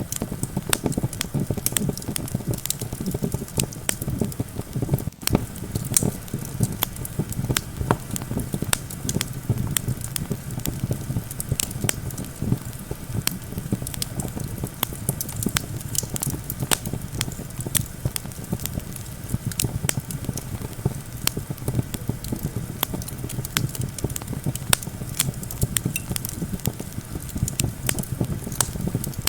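Wood campfire crackling, with frequent sharp pops at irregular intervals over a steady low rumble of wind.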